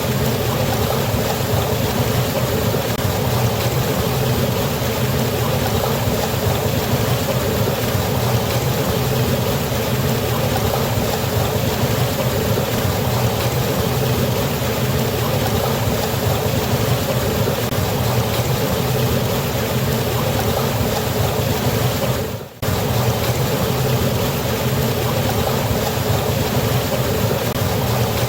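Waterfall rushing steadily, a dense even roar of falling water. About 22 seconds in it briefly dips out and comes straight back.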